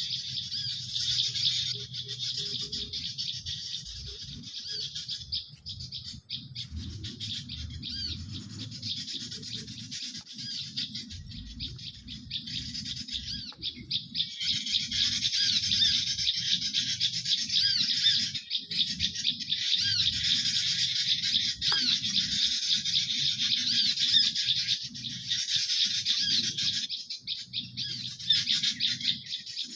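Dense, continuous high-pitched twittering of small birds, a chirping call used to lure garden birds in. It gets louder about halfway through, over a low rumble.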